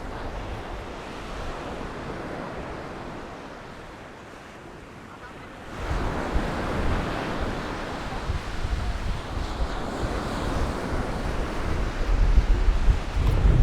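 Small Mediterranean waves washing onto a sandy beach, with wind buffeting the microphone. The sound jumps louder suddenly about halfway through, and the low wind rumble is heaviest near the end.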